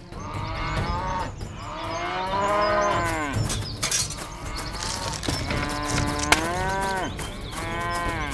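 Cattle mooing: about four long, drawn-out moos, one after another, with a sharp click about three-quarters of the way through.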